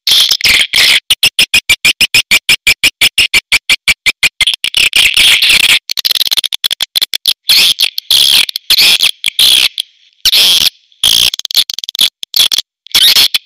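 Edible-nest swiftlets calling in a recorded call track: rapid high chirps, about ten a second at first, then breaking into more irregular twittering with short pauses. This is the kind of swiftlet call sound played to attract swiftlets to a nesting house.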